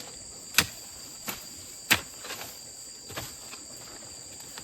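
Four sharp blows of a digging or chopping tool into soil and banana roots, two of them loud, about half a second and two seconds in. Insects chirr steadily throughout.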